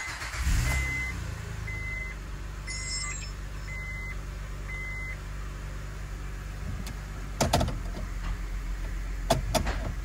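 2006 Honda Ridgeline's 3.5-litre V6 catching at start-up, then settling into a steady idle. A chime beeps six times, about once a second, over the first five seconds, and a few sharp clicks come in the second half.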